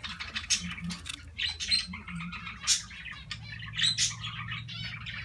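Pet budgerigars chirping and chattering, a quick run of many short high chirps, over a faint low steady hum.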